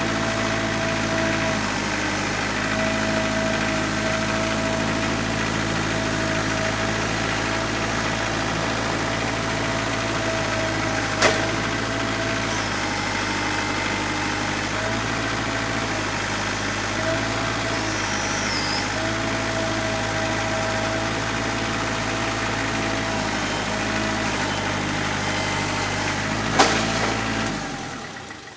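An engine idles steadily, with a sharp knock about halfway through and another shortly before it shuts off, winding down near the end.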